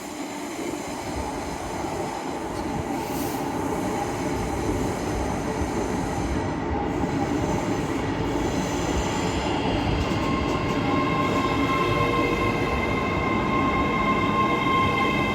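East Midlands Railway Class 810 Aurora train pulling into the platform, its running noise growing slowly louder, with a steady high-pitched squeal joining about ten seconds in as it slows.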